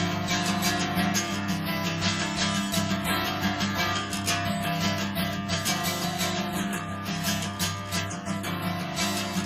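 Live music: strummed acoustic guitar leading an instrumental passage with no singing.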